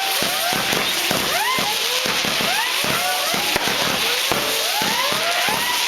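New Year's Eve fireworks going off continuously: a dense run of many short, overlapping whistles that rise and fall in pitch, with sharp cracks and pops throughout.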